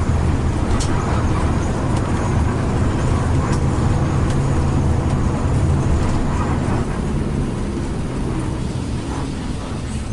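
Intercity coach driving along, its engine giving a steady low drone over road noise, easing off slightly in the last few seconds.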